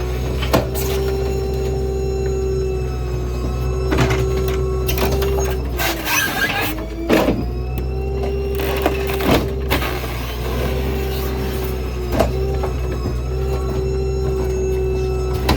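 Rear-load garbage truck running with a steady hydraulic whine over its engine hum. The whine sags in pitch briefly about six seconds in, then steadies again. Scattered knocks and clanks run through it.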